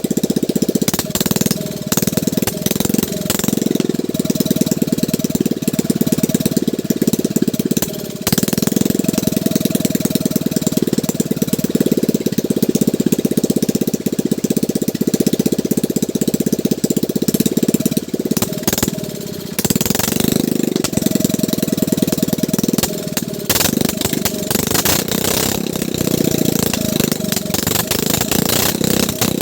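Boat engine running with a rapid, steady chugging, dipping briefly a couple of times, as it is tried out during the repair.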